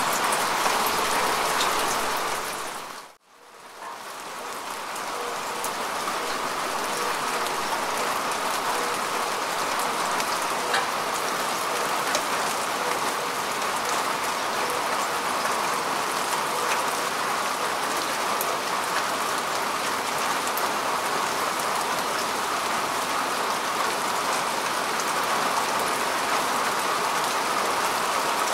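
Steady rain falling on grass and earth, an even patter with a few sharper drops. About three seconds in, it briefly fades almost to silence and then swells back up over a couple of seconds.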